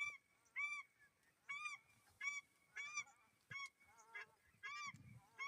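Repeated short honking bird calls, each a brief rise-and-fall of pitch, coming about three every two seconds.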